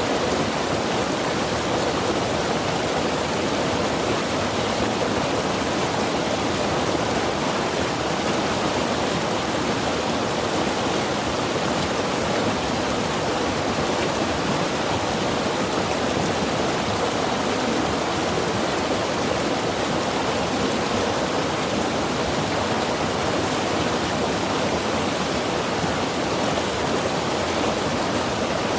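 Mountain river rushing steadily over rocks, a dense, even roar of water with no breaks.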